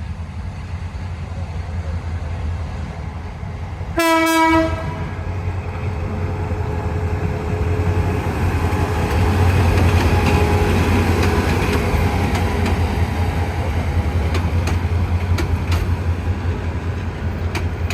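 Train horn sounding one short, single-pitched blast about four seconds in, over the steady low rumble of a train running on the rails that grows louder and peaks midway. Near the end there are a few sharp clicks of wheels over rail joints.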